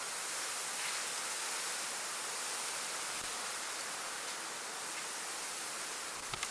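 Steady wind blowing, an even hissing rush with no let-up, and two faint ticks just before the end.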